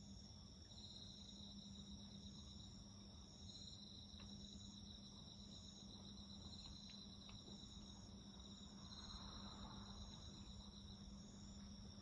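Night insects, crickets among them, singing faintly: a steady high trill with a pulsed phrase repeating about every one and a half to two seconds. A few faint crackles from the wood fire come midway.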